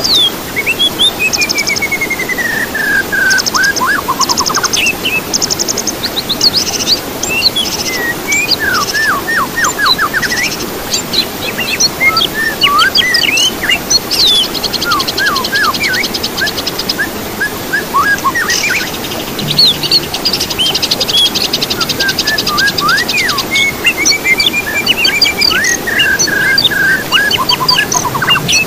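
Several songbirds singing together: sharp chirps, whistled slides up and down, and rapid rattling trills that run for a few seconds at a time, over a steady hiss.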